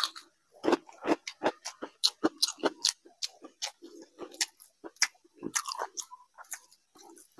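Close-miked chewing of a mouthful of food: irregular wet smacks with sharp crunches and clicks.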